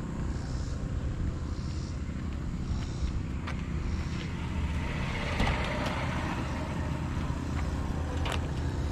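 Car engine idling with a steady low rumble, with a couple of sharp clicks over it.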